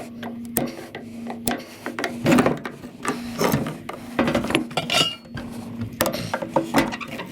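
Hand tools knocking, clinking and scraping against scrap metal parts being taken apart, in irregular strikes over a steady low hum.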